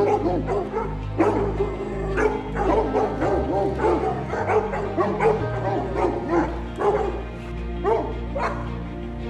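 A dog barking and yipping repeatedly in short, rising-and-falling calls, over background music with steady bass notes.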